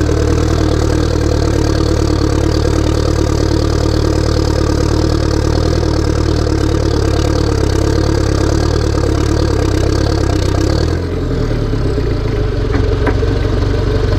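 Massey Ferguson tractor diesel engine running steadily. About eleven seconds in it eases off slightly and a high whine over it stops.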